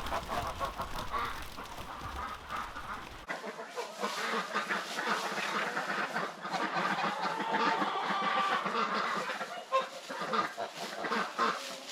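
A flock of farm poultry, ducks and geese among them, calling together in many short, overlapping calls. A low rumble under the calls stops abruptly about three seconds in.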